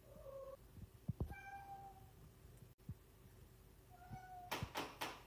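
Cat meowing three times in short, even-pitched calls, with a few faint knocks and short rustling bursts near the end.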